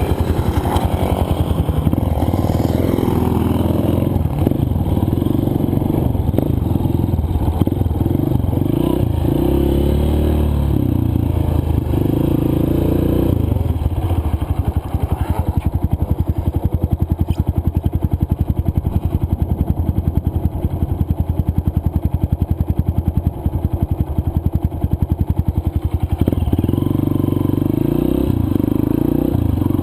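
Dirt bike engine heard on board while riding a trail, revs rising and falling with the throttle through the first half. It steadies in the middle stretch and picks up again near the end.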